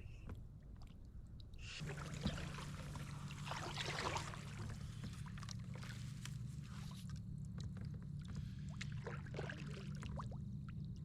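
Kayak paddle strokes in pond water: the blade dipping and splashing, with drips and light knocks against the hull. A steady low hum sits underneath from about two seconds in.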